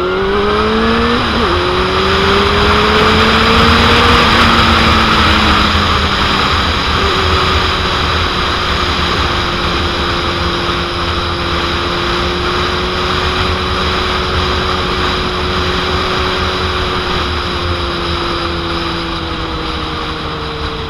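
2001 Suzuki GSX-R750's inline-four engine accelerating hard, its pitch climbing with an upshift about a second in and then holding steady at cruising speed. Heavy wind noise on the microphone.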